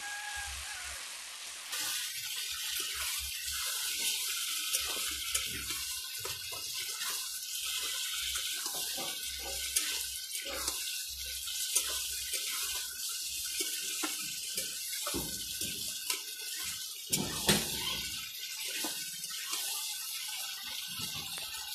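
Marinated chicken pieces sizzling in hot oil in a kadai as a spatula stirs them, with frequent scrapes and knocks of the spatula against the pan. This is the kosha stage, the chicken being fried hard with its spices.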